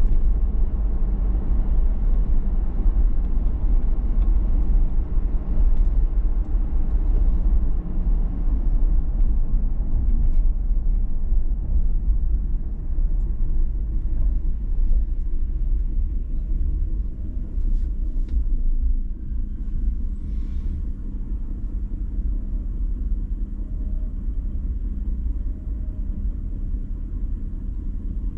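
2019 Toyota 4Runner TRD Pro driving, its engine and tyre noise making a steady low rumble that eases a little about halfway through.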